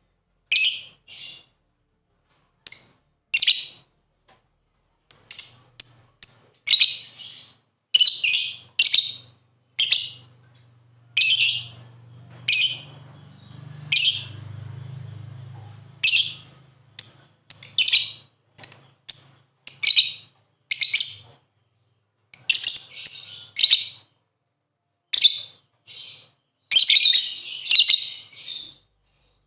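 Lovebirds chirping: short, high-pitched calls, some single and some in quick clusters, at irregular intervals. A faint low hum sits underneath the middle part.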